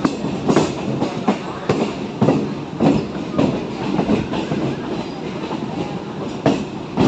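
Chennai suburban electric multiple unit (EMU) train running, heard from on board: its wheels clatter over the track in a steady rhythm of about two clacks a second, over the rumble of the moving coaches.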